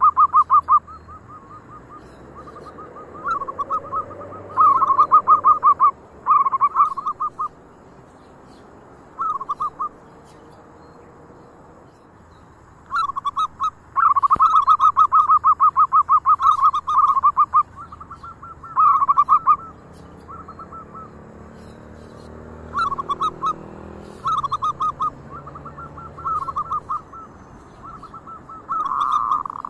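Zebra doves cooing: bout after bout of rapid, staccato coo notes, some loud and close, others fainter.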